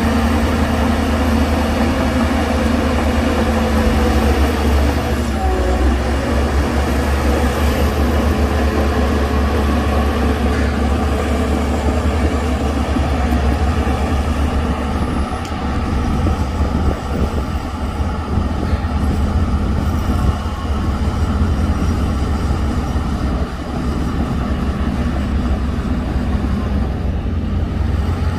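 Heavy diesel earthmoving machine running steadily under load, with a brief shift in engine pitch about five seconds in.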